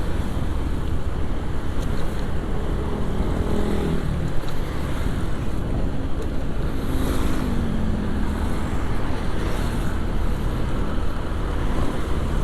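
Riding on a motorcycle over a wet road: a steady rumble of wind on the camera microphone and tyre hiss. An engine note shows through and falls in pitch twice, a few seconds in and again near the middle.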